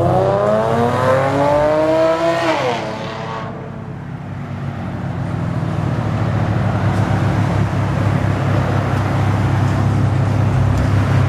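A car engine accelerating hard, its pitch rising steadily for nearly three seconds before it falls away. After that comes a steady rumble of engines, with a low drone underneath the whole time.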